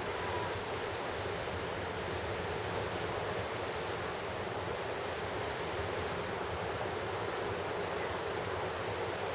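Pacific Ocean surf breaking on the shore: a steady, even roar of waves with no single crash standing out.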